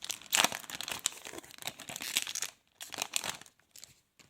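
Wrapper of a trading-card pack being torn open and crinkled: a dense run of crackling for about two and a half seconds, then a shorter burst about three seconds in.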